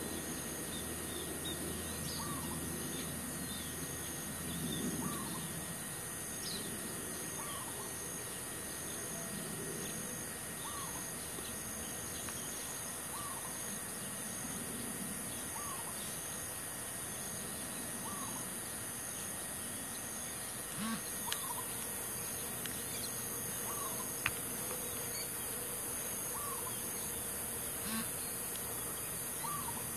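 A bird repeating a short chirp about every two seconds, over a steady high-pitched hiss, with a few faint clicks.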